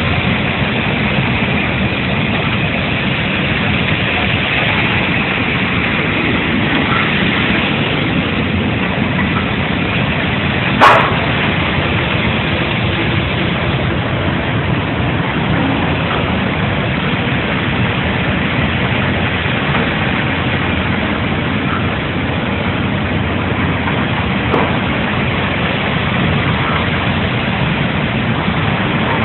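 Steady noise of a coffee dryer's machinery running, with a single sharp knock about eleven seconds in.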